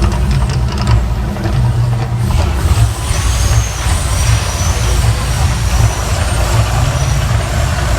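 Volcano show's eruption effects: a loud, continuous deep rumble with a rushing hiss over it.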